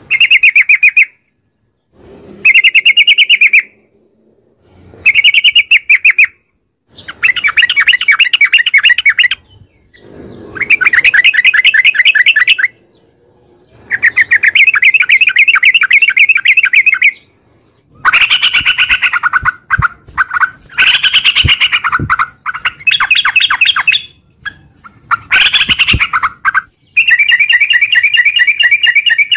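Trucukan (yellow-vented bulbul) singing: about a dozen loud, fast runs of rapidly repeated chattering notes, each one to three seconds long with short pauses between.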